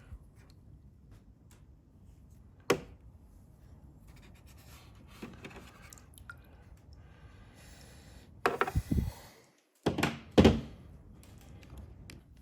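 Small metal carburetor parts handled on a bench, with a sharp clack about three seconds in. Near the end come a few short, loud hissing blasts of compressed air blowing the cleaned parts out.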